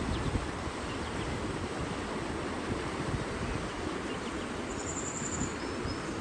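Outdoor nature ambience: a steady rush of running water, with a short high-pitched bird trill about five seconds in and a few faint chirps near the end.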